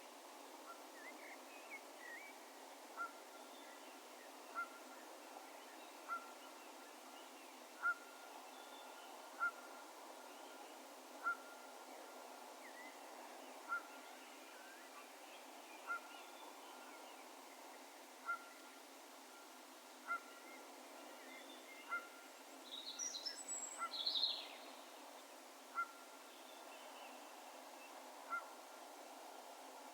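A distant bird repeating a single short whistled note every couple of seconds, each note echoing over the open ground, against a faint steady outdoor hush. About three-quarters of the way through, a brief flurry of higher chirps from another bird is the loudest sound.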